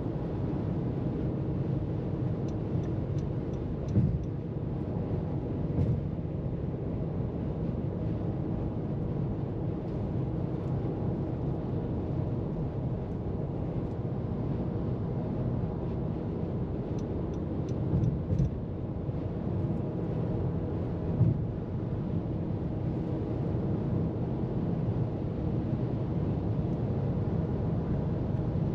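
Car driving at freeway speed: a steady low rumble of tyres and engine, broken by four short thumps.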